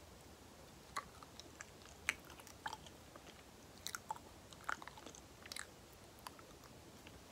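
Close-miked sticky mouth sounds of someone chewing banana: soft, wet smacks and clicks of lips and tongue at an irregular pace.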